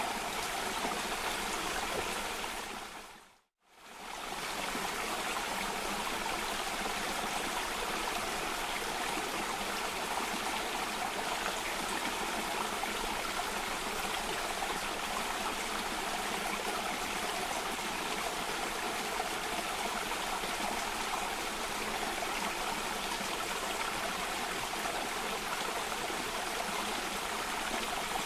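Steady rush of water cascading in a stream or small waterfall. About three and a half seconds in it fades out to silence and straight back in, like a recording's loop point.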